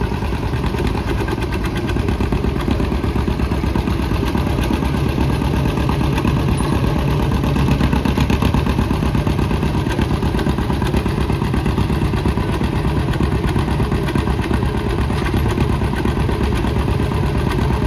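Antique farm tractor engine running steadily nearby, its firing beat even, with no revving up or down.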